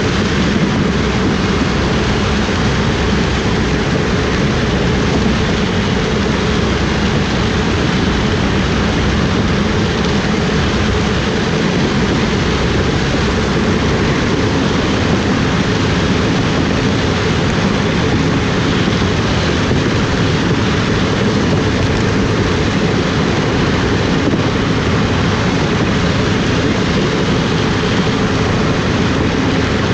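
Heavy farm machinery's diesel engine running steadily under load, a constant loud drone with a low hum and no change in speed.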